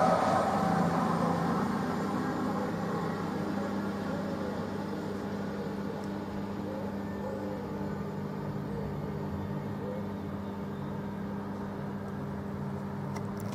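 A train running away into the distance, its sound fading over the first few seconds and leaving a steady, faint hum.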